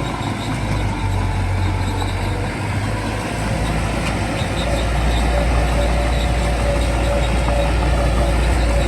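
Small crawler bulldozer's diesel engine running steadily, growing louder and deeper about halfway through as it takes on more load or revs.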